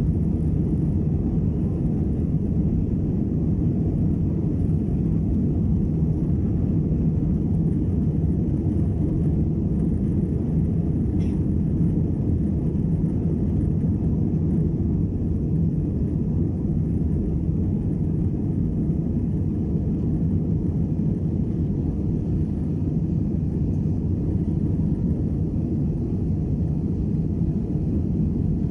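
Cabin noise of an Airbus A320-216 climbing out after takeoff: a steady low rumble of its CFM56 engines and airflow, heard inside the cabin from a rear window seat.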